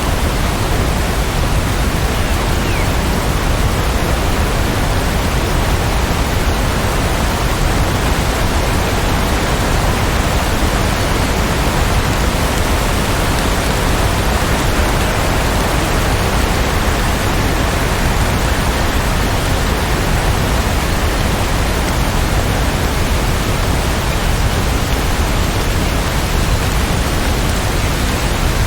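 Steady rainfall, an even unbroken hiss that holds the same level throughout.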